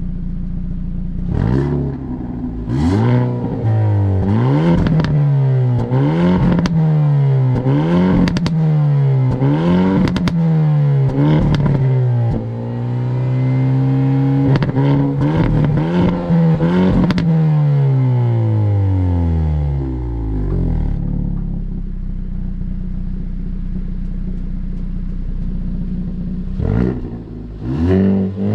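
2022 Hyundai i30 Sedan N's 2.0-litre turbocharged four-cylinder engine and exhaust under hard driving. Revs climb and drop again and again as it works through the gears, with sharp cracks from the exhaust among them. About twenty seconds in it settles to a steady lower drone, then revs up once more near the end.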